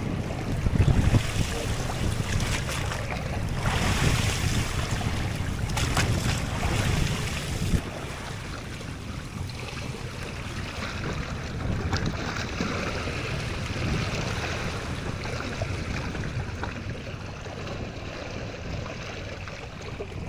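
Wind buffeting the microphone over the wash of sea waves. There is a heavy low rumble, gusting louder in the first half, with a few sharp knocks.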